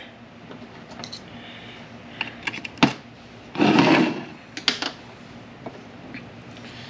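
Light clicks and taps of small metal transmission shift-tower parts being handled and set down on a workbench, a few scattered knocks with one sharper click near three seconds in, and a brief rustle a little after three and a half seconds.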